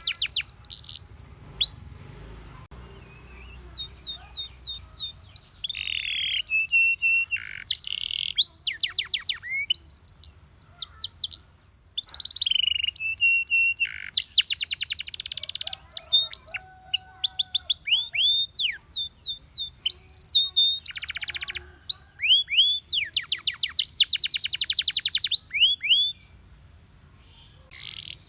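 Male canary singing a long song: rapid trills of repeated chirps, quick whistled sweeps and a few steady held notes, with a short pause a couple of seconds in and a quieter stretch near the end.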